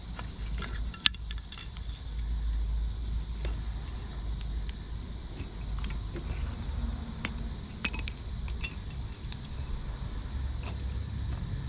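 Campfire crackling and popping: irregular sharp snaps from burning wood, over a steady low rumble.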